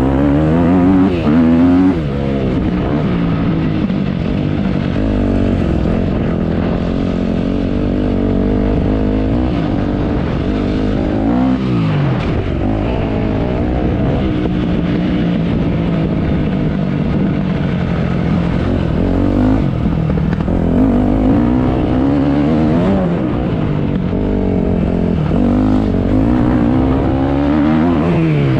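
Motocross dirt bike engine, its pitch rising and falling over and over as the throttle opens and closes while riding.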